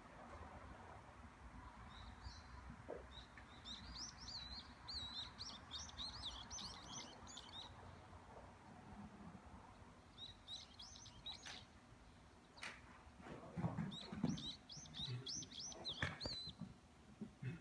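Small birds chirping in quick, high twittering phrases, in two bouts, over faint outdoor background noise. A few low thumps come in the last few seconds.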